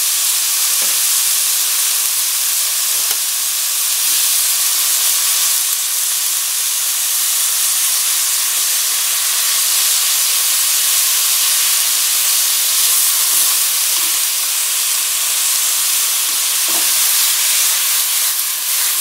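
Sliced pork, cabbage, onion and carrot sizzling steadily in a hot frying pan while being stir-fried, with a few faint knocks as chopsticks turn the food against the pan.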